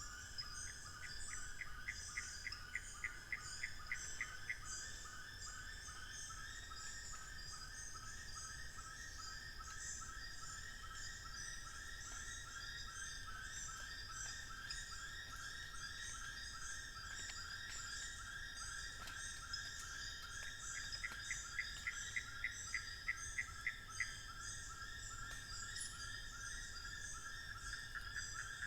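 Dense dawn chorus of birds, frogs and insects in a montane African forest: a steady pulsing chorus with many high chirps over it. Twice a bird gives a run of about ten quick, clear notes that grow louder, once near the start and once about three quarters of the way through.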